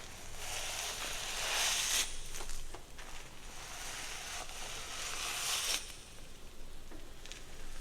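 Hair being worked close to the microphone: two long rustling, crackling strokes of about two seconds each, with shorter crackles between them.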